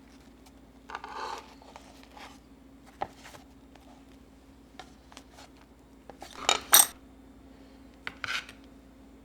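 Household items being handled in a kitchen: a few scattered clicks, light scrapes and clinks, with the loudest a quick pair of clatters a little past the middle, over a faint steady hum.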